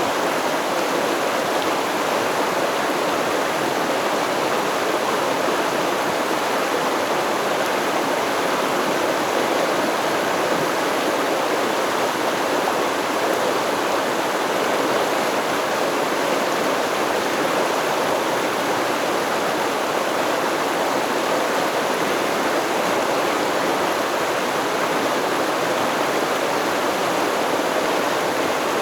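Flowing stream water, a steady even rush with no change over the whole stretch.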